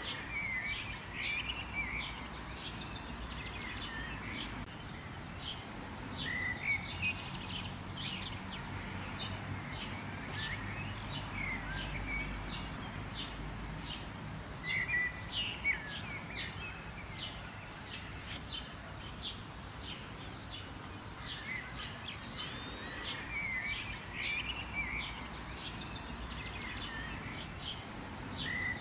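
Many wild birds chirping and calling over a steady background of outdoor ambience: a constant stream of short high chirps, with louder clusters of calls every few seconds.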